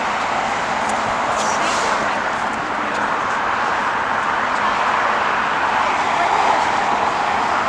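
Jet airliner engines giving a steady rushing noise that swells slightly near the end.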